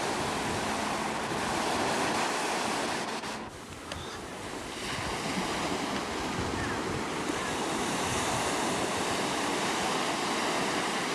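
Surf washing in on the shore, with wind on the microphone; it eases briefly about three and a half seconds in.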